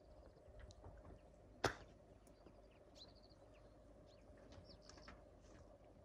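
Faint, scattered bird chirps and short high calls over a quiet outdoor background, with one sharp click about a second and a half in.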